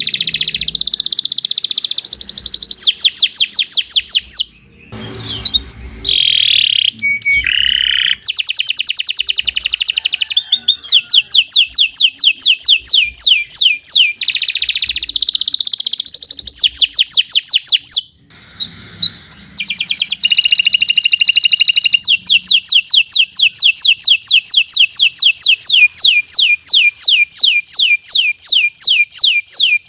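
Domestic canary singing a long, continuous song made of rapid trills of fast repeated high notes. The song breaks off briefly about five seconds in and again about eighteen seconds in.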